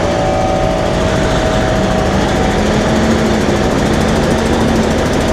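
Semi truck's diesel engine running steadily at low revs while the truck backs up, with a faint steady hum that steps up slightly in pitch about a second and a half in.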